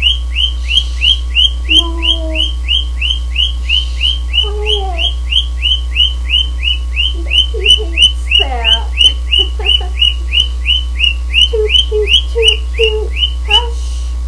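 Pet cockatiel chirping over and over in an even run of short, high chirps, about three to four a second, that stops abruptly near the end. Softer, lower gliding warbles come in between, over a steady low hum.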